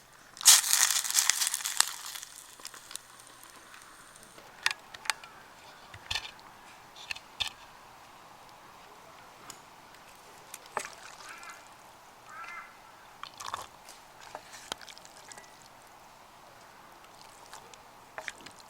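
A brief splashing pour of liquid about half a second in, followed by scattered light clicks and knocks, typical of cookware being handled.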